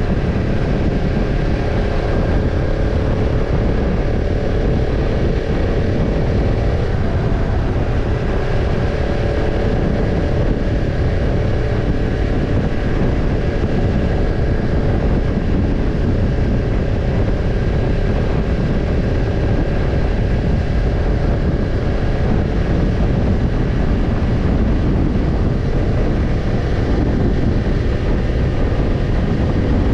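Kawasaki Ninja 250's parallel-twin engine exhaling through a BEET NASSERT Evolution Type II titanium slip-on muffler while riding at a steady speed, with heavy wind rush on the camera. The engine note holds nearly constant, shifting slightly in pitch about seven seconds in.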